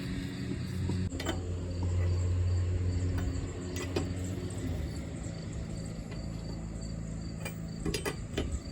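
A car engine idling steadily under a faint chirping of crickets, with a few sharp clicks.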